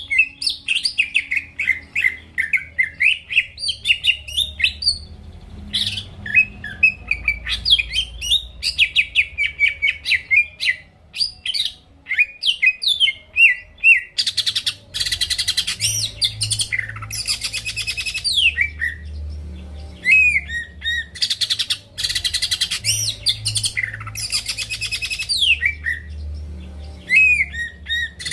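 Cucak ijo (green leafbird) in full song: a fast, varied run of chirps, slurred whistles and trills, broken by harsh buzzy phrases in the second half.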